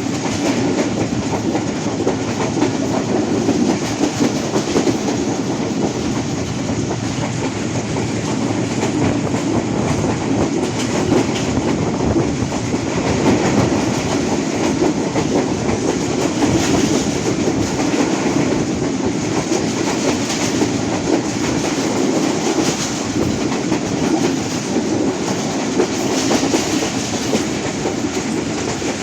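Train in motion, heard from aboard: a steady rumble of the wheels running on the track.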